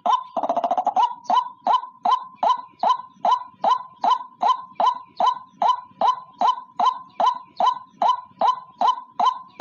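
White-breasted waterhen (ruak-ruak) calling: a quick gurgling rattle just after the start, then a monotonous run of short 'kwak' notes, about three a second.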